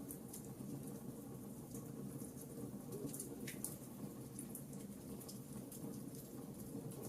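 Wood fire in a fireplace crackling: scattered sharp pops and ticks over a steady low rumble of the flames, with one stronger crack about halfway through.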